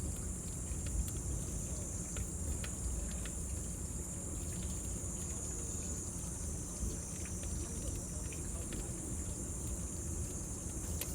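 Cicadas singing as a steady high-pitched drone, over a low rumble with scattered sharp crackles from a wood bonfire.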